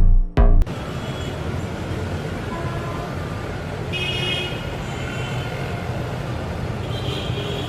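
Road traffic noise: a steady rumble and hiss of vehicles, with a short high tone about four seconds in and another near the end.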